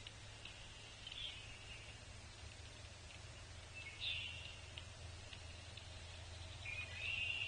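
Wild birds calling outdoors: three short high phrases, about a second, four seconds and seven seconds in, the last the loudest. A faint steady low hum runs beneath them.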